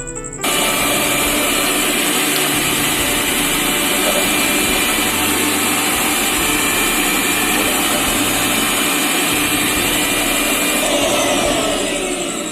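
Mixer grinder motor switched on about half a second in and running steadily at high speed, then switched off near the end and winding down. This is a test run of the newly fitted replacement motor.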